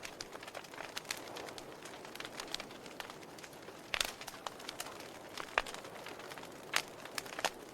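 Wood fire crackling in a fireplace: irregular sharp pops and snaps, a few louder ones about four, five and a half, seven and seven and a half seconds in, over a soft steady rush of flame.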